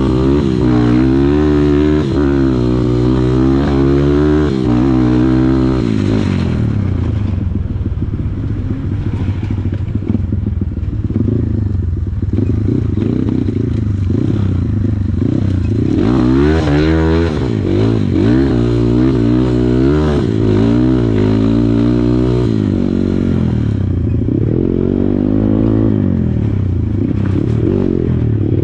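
Kawasaki KLX140 dirt bike's single-cylinder four-stroke engine under way, its pitch rising and falling over and over as the throttle is opened and closed.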